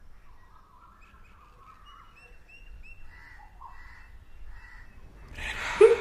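Birds chirping faintly in short repeated notes, then a sudden loud, noisy burst near the end.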